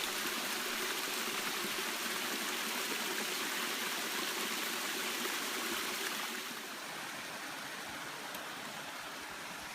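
Steady rush of flowing water from a woodland stream or small waterfall, dropping a little in level about six seconds in.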